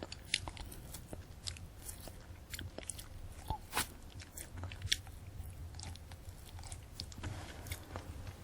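Close-miked chewing of a candy apple: irregular sharp crunches and clicks of the hard sugar shell and crisp apple being chewed, with small wet mouth sounds.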